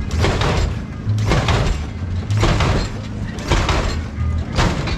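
Lowrider car hopping on its hydraulics, with a sudden noisy burst about once a second as the pumps fire and the car bounces, over a low steady hum.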